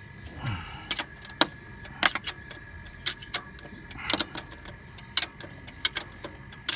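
Sharp metallic clicks and clinks of a wrench and tools working on the engine's drive-belt tensioner adjuster bolt, about a dozen at irregular intervals.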